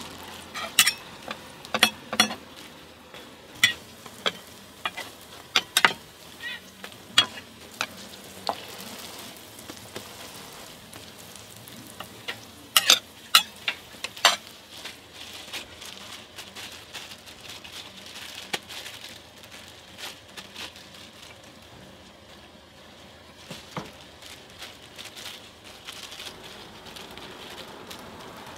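Hotteok frying in oil on a flat griddle, a steady sizzle, with sharp metal clinks and taps from the hotteok press and tools striking the griddle, most of them in the first half.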